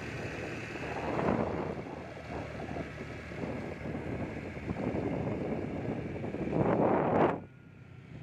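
Wind buffeting the microphone over a steady outdoor rumble, swelling louder about a second in and again near the end before dropping off suddenly.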